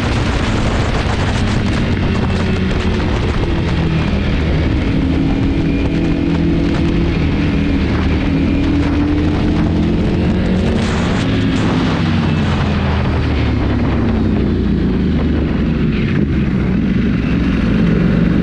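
Motorcycle engine under way, its pitch rising and falling as the revs change, under a heavy rush of wind on the microphone.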